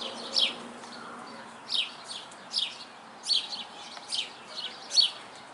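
Sparrow chirping: short, sharp chirps, each falling quickly in pitch, repeated about once or twice a second.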